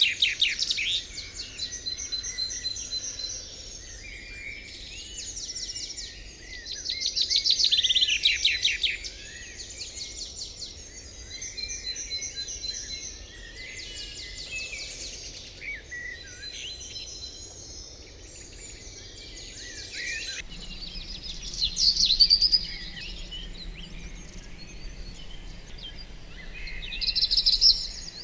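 Several songbirds singing, with overlapping phrases of quick trills and chirps coming and going over a low steady background hiss. The background changes abruptly about two-thirds of the way through.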